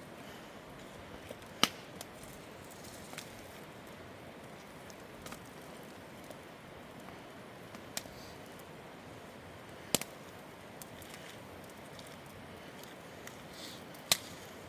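Campfire wood burning, with sharp pops and snaps over a steady hiss: three loud pops, a weaker one and a few small ticks, spread irregularly.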